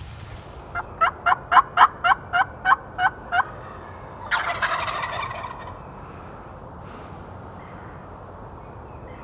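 Wild turkey yelping: a run of about ten evenly spaced yelps, roughly four a second, followed about a second later by a gobble lasting about a second.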